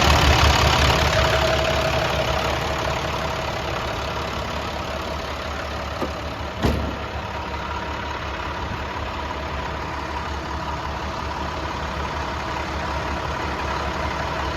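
International WorkStar 7400 dump truck's MaxxForce diesel engine idling steadily, a little louder over the first few seconds before settling. Two short knocks come near the middle, the second louder.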